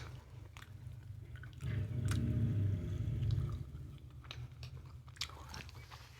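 Close-miked chewing of guava: soft wet mouth clicks and squishes, with a louder, low, muffled stretch lasting about two seconds near the middle.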